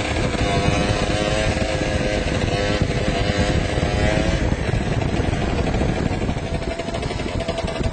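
Motorcycle engine running, its note holding steady for about four seconds, then breaking up and easing off slightly near the end.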